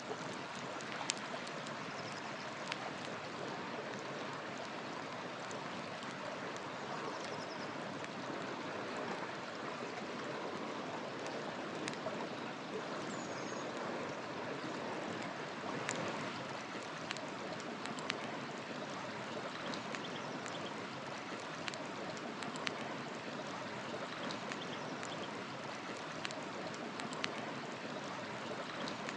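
River water flowing in a steady rush, with a wood fire crackling in frequent sharp pops and snaps over it. A few faint, high bird chirps come through now and then.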